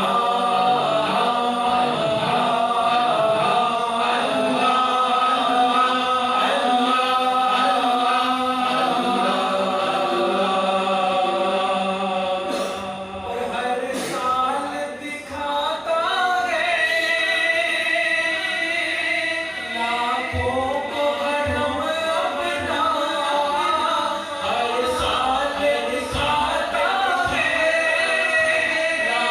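Male voice singing an Urdu naat, a devotional poem about longing to see the Kaaba, a cappella, with layered, echoing backing vocals that sound like a choir.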